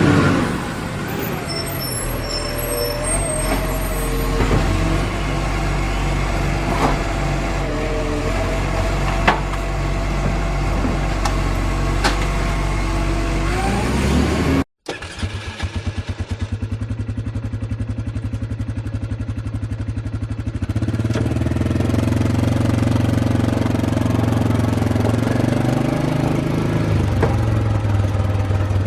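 A vehicle engine sound running steadily. It cuts out for a moment about halfway, then comes back with a fast, even pulsing that settles into a steady hum.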